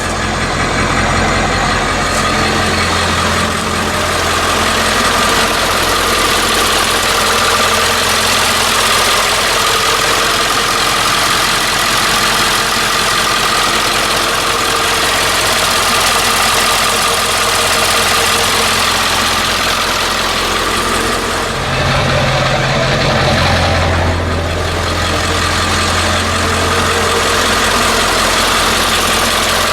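Ford 7.3-litre Power Stroke turbo-diesel V8 running steadily. Its low note shifts briefly about two-thirds of the way through.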